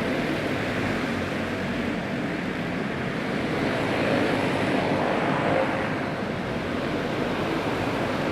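A field of dirt-track racing karts with clone four-stroke single-cylinder engines running flat out around the track after a green-flag restart, heard as a steady blended engine drone.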